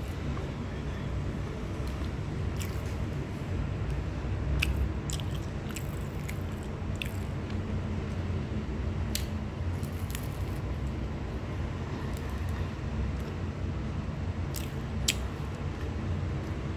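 Chewing a flaky curry chicken puff, with scattered sharp crisp crackles, over a steady low background rumble.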